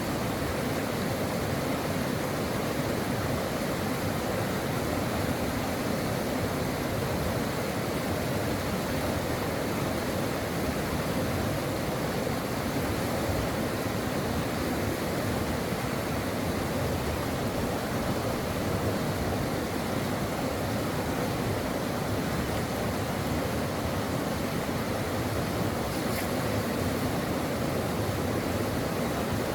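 Brook water flowing in a steady, even rush.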